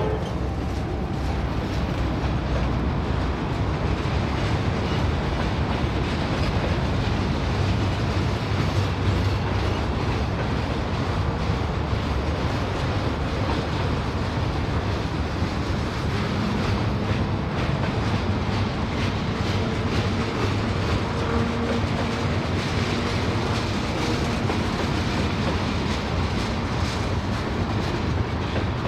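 Freight train cars, lumber-loaded flatcars followed by tank cars, rolling steadily past on the rails: a continuous, even rumble of wheels on track.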